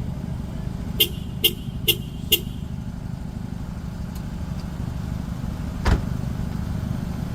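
Steady low rumble of street traffic. About a second in, four short, sharp sounds come evenly spaced, about two a second, and a single louder knock follows near the end.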